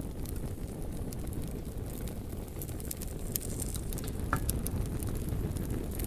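Wood fire burning: a low steady roar of flame with scattered sharp crackles and pops, and a brief high whistle about four seconds in.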